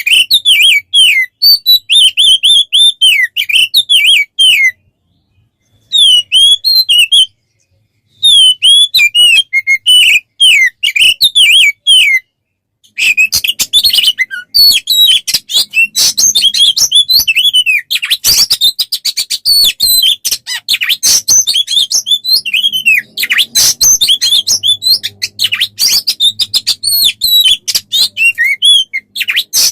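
Songbird song: rapid, varied chirping and whistled phrases, broken by a few short silent gaps in the first half and turning denser and busier from about halfway on.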